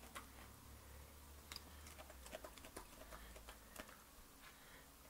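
A dog chewing raw carrots: faint, irregular crunching clicks.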